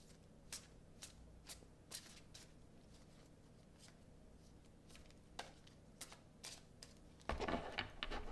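Tarot cards being shuffled by hand: separate light snaps of cards about twice a second, then a quicker, louder run of card noise near the end.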